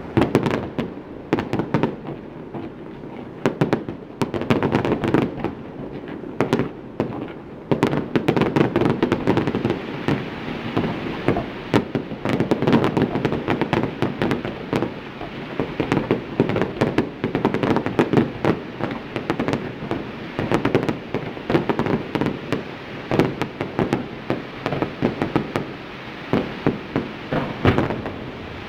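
Aerial fireworks display: a rapid, irregular barrage of shell bursts and crackling, many bangs a second over a continuous rumble.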